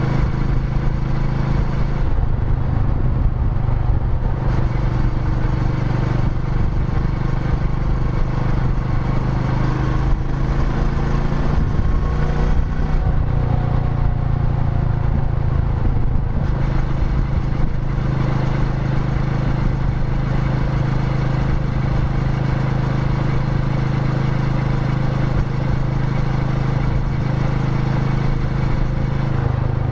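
Royal Enfield Meteor 350's single-cylinder engine running while the motorcycle is ridden, with a steady note that dips and rises in pitch about halfway through.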